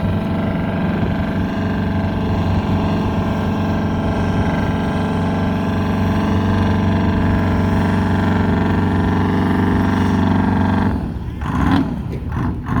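A vehicle's engine running at a steady idle, holding one even pitch, that cuts off abruptly near the end and is followed by a few short knocks.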